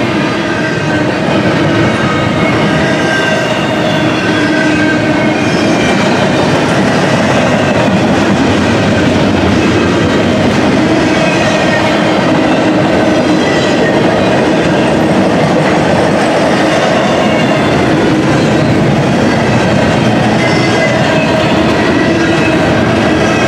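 Intermodal container train's freight cars rolling past: a loud, steady rumble of steel wheels on rail, with thin steady ringing tones from the wheels running through it.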